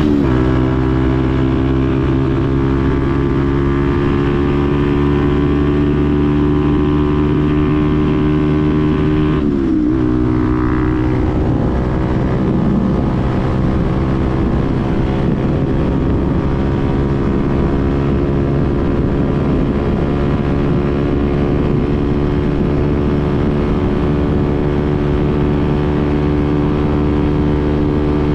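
Benelli TNT 125's single-cylinder four-stroke engine running at a steady pitch, with a brief drop and recovery in engine speed about nine and a half seconds in.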